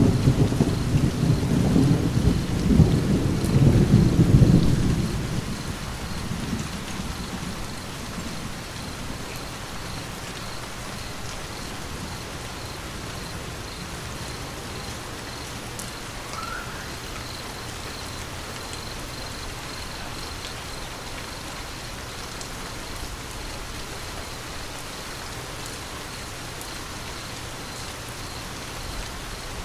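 A heavy rumble of thunder opens and dies away over the first several seconds, over steady rain that carries on alone.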